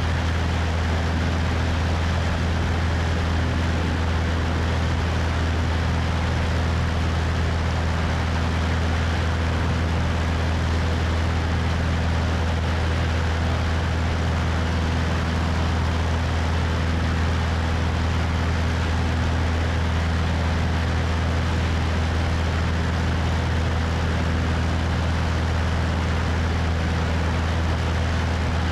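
Cessna 172's piston engine and propeller running steadily in flight, with wind rushing over a wing-mounted microphone. It is a constant low drone with no change in pitch or level.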